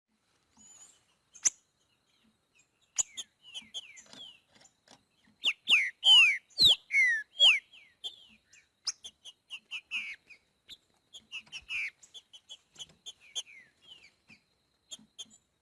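Green-winged saltator (trinca-ferro) singing: phrases of clear downslurred whistles, with the loudest phrase about six seconds in and shorter, quieter notes around it.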